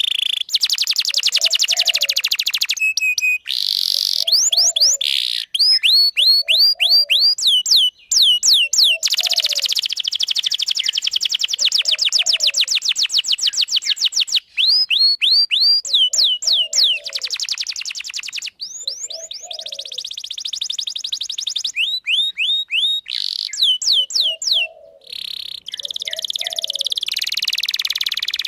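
Domestic canary singing a long, unbroken song of fast rolling trills and runs of repeated sweeping whistles, with only brief pauses between phrases. A short lower note recurs every couple of seconds.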